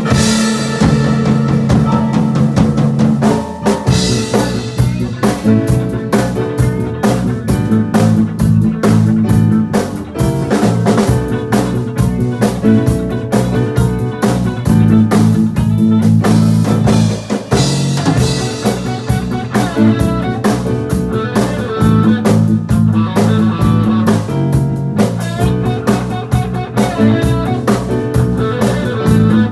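Band playing live over a loud PA, with guitar and a drum kit keeping a steady beat.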